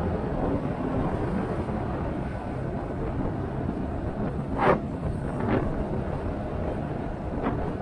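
Motorcycle riding along: engine running under heavy wind noise on the microphone, with a sharp gust buffeting it about two-thirds of the way through and smaller ones after.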